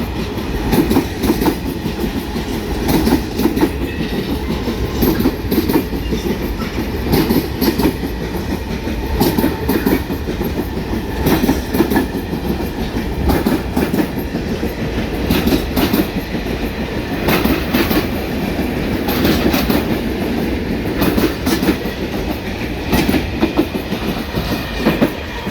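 Freight train wagons rolling past, a steady rumble with the clatter of wheels knocking over rail joints throughout.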